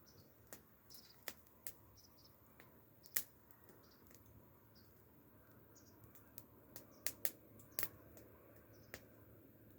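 Wood fire crackling: irregular sharp pops and snaps, the loudest about three seconds in, with a cluster near the seventh and eighth seconds.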